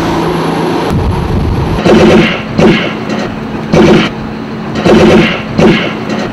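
Fast boat running at speed: a steady rush of engine and water, then loud surges of engine noise about once a second, often in pairs.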